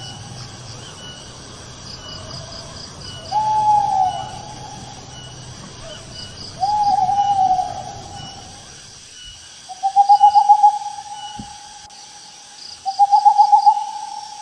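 An owl hooting: two single hoots that rise and fall, about three seconds apart, then two longer quavering hoots that wobble rapidly, like a trill. Insects chirp faintly and rhythmically behind the first hoots.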